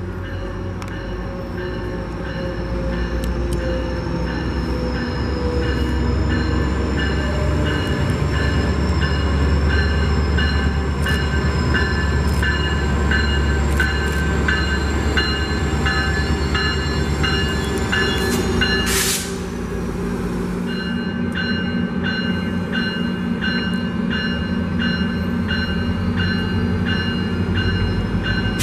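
A train passing close by. A heavy low rumble builds over the first few seconds and holds, with a thin high wheel squeal and a rapid repeating high ringing tone above it. A short hiss comes about two-thirds of the way in, after which the rumble drops away.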